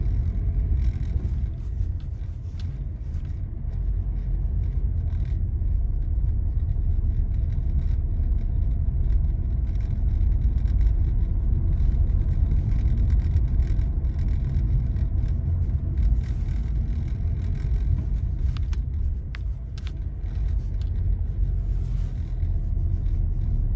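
Car driving at steady speed, heard from inside the cabin: a continuous low rumble of road and engine noise.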